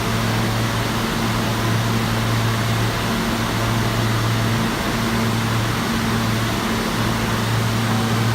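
New York City subway train heard from inside the car: a steady rumble and hiss with a low hum that drops out briefly a few times.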